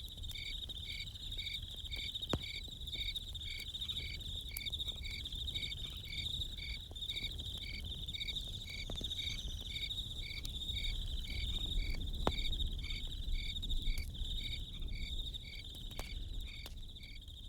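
Crickets chirping steadily: a continuous high trill with an evenly repeated chirp about twice a second. A few sharp, isolated campfire crackles and pops sound now and then.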